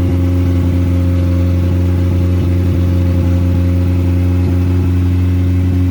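Car engine running at a steady, unchanging speed, a constant low hum with no revving up or down.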